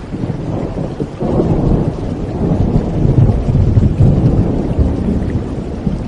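Rolling thunder over steady rain: a deep rumble swells about a second in, peaks midway and eases off near the end, while the rain keeps up a steady hiss.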